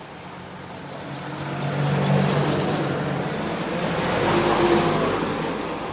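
Heavily loaded truck's diesel engine pulling uphill under load. It grows louder to a peak about two seconds in and again near five seconds.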